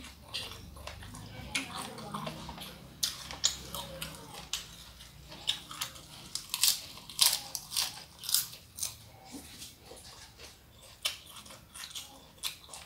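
Close-miked eating: irregular crisp crunching bites and chewing of a fresh lettuce leaf, densest in the middle of the stretch.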